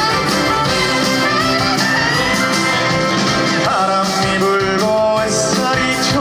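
Live band music of an upbeat twist-style trot song, with guitar and a male singer's voice.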